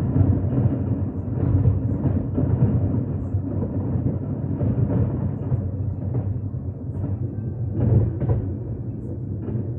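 Fireworks bursting in quick succession: a continuous low rumble of overlapping booms with sharper bangs on top, the loudest pair just before and after about 8 seconds in.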